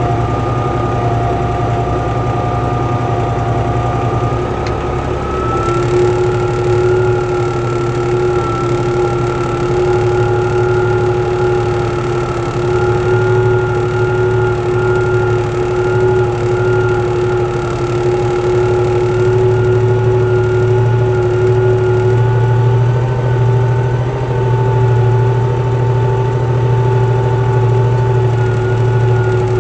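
Tractor diesel engine running steadily; its pitch steps up about six seconds in and then holds.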